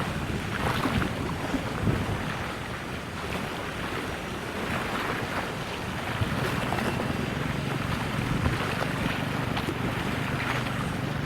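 Wind buffeting the microphone in gusts, over a low, steady engine drone from a vessel on the water.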